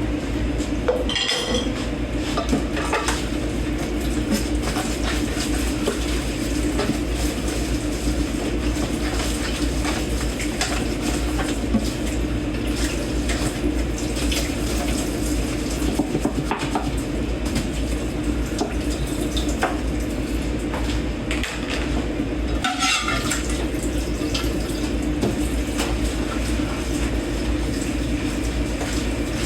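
Dishes and cutlery washed by hand in a kitchen sink under a running tap: steady water with scattered clinks and clanks of plates and forks, and a couple of brief ringing clinks.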